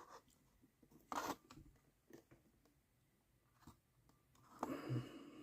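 Faint handling noises of small model roofing pieces: a short sharp rustle about a second in, a few light clicks, and a longer rustle near the end.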